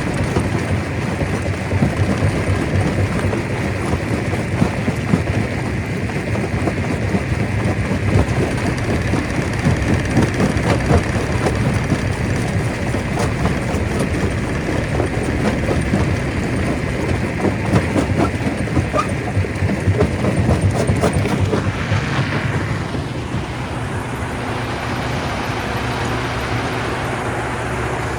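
Stone crusher running, with rock clattering and grinding through it over a steady low machine rumble. About twenty-two seconds in the clatter dies away and a smoother, steady engine drone is left.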